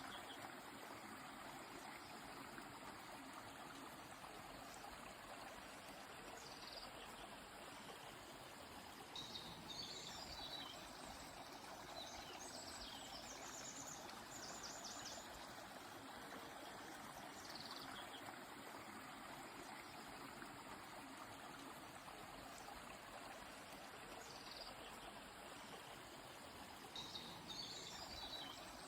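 Faint, steady rush of a flowing river, with a few short, high bird chirps coming and going over it, most clearly about a third of the way in and again near the end.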